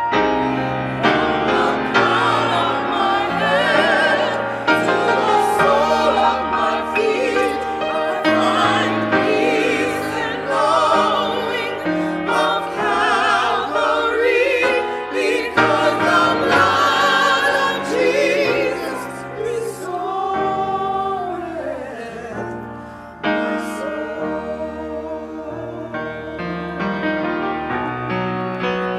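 A choir singing with vibrato over a sustained accompaniment, softening briefly past the middle before swelling again.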